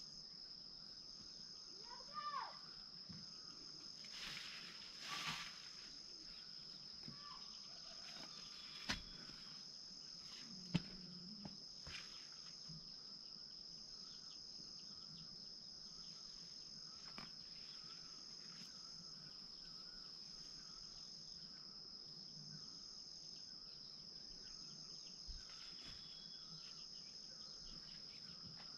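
Faint, steady high-pitched trilling of insects throughout, with a few sharp knocks around the middle.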